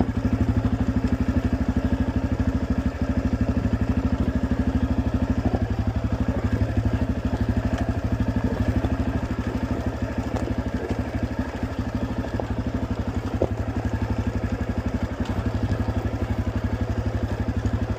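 Honda CRF250 dirt bike's single-cylinder four-stroke engine running at low, steady revs while the bike rolls down a rough, rocky hill.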